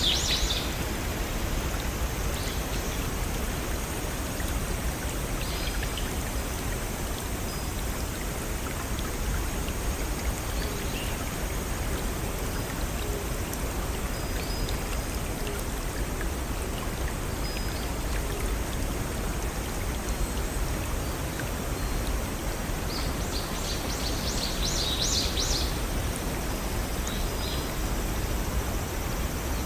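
A small brook and waterfall run steadily with a continuous rushing of water. Birds chirp in short bursts right at the start and again in a cluster about 23 to 26 seconds in.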